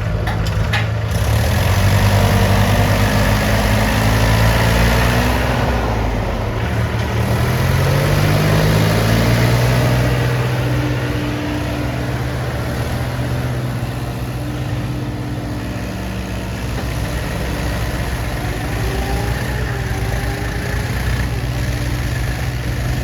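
Tractor diesel engine running steadily under load. It revs up in pitch about a third of the way in, then holds at the higher speed. A few sharp clicks in the first second.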